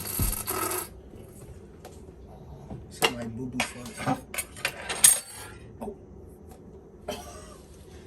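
Metal cutlery clinking: a cluster of sharp clinks between about three and five seconds in, the loudest near the five-second mark.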